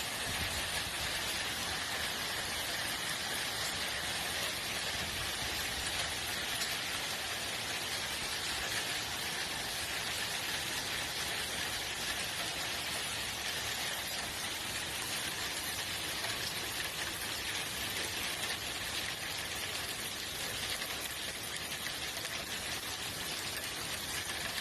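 Steady rain falling in a thunderstorm, an even hiss of drops striking surfaces.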